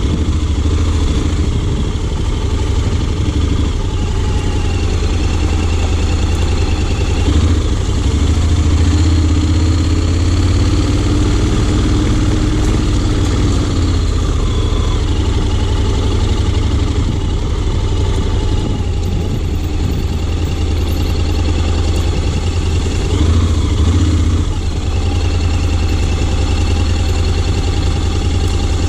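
Honda X-ADV 750's parallel-twin engine running steadily at low revs, its pitch rising and falling a little.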